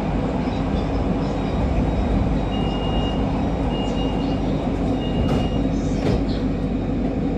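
MRT Kajang Line metro train running along the track, a steady rumble heard from inside the train. Three short, thin high-pitched tones come a few seconds in, and faint clicks follow near the end.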